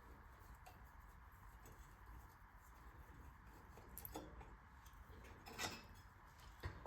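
Near silence, with a few faint metal clicks about four and five and a half seconds in, from hand tools working the small screws of a cover plate on a small engine.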